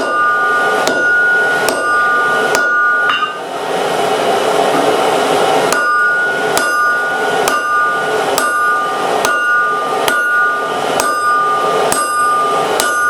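Hand hammer striking hot steel on an anvil at a steady pace of a little more than one blow a second, each blow leaving a bright ring, over a steady rushing noise. The blows pause for a couple of seconds about three seconds in, then carry on.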